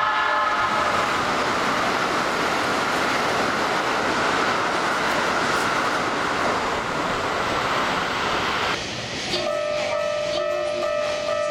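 A Keikyu electric train running through the station at speed: a loud, steady rush of wheel and running noise for about nine seconds that cuts off suddenly as it clears. Then the platform's level-crossing-style approach warning is heard again, ringing at two steady pitches.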